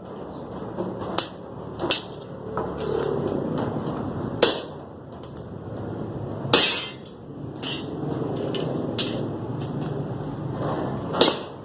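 Steel rebar being cut by hand: sharp, ringing metal strikes at an irregular pace, about five loud ones with smaller knocks between, over a steady low rumble of site noise.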